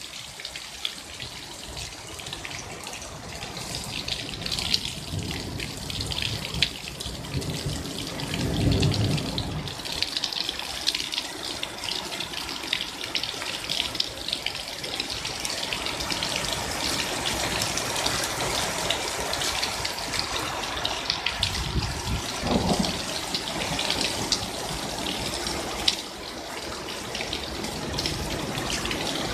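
Hail and heavy rain pelting down, a dense patter of countless small hits that grows steadily heavier. Twice there is a brief deeper swell beneath it.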